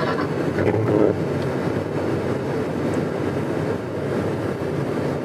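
Steady rushing rumble of a car driving through a blizzard, road and engine noise mixed with blowing wind.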